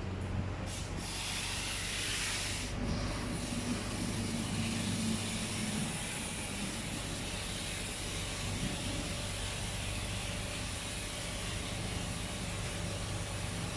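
Water spraying against the car body, a steady hiss heard from inside the cabin, swelling about a second in, over a low steady hum.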